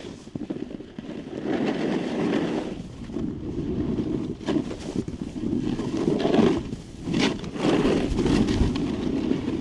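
Snowboard edges scraping and carving over snow, the rush swelling and fading with each turn, mixed with wind rushing over the rider's microphone.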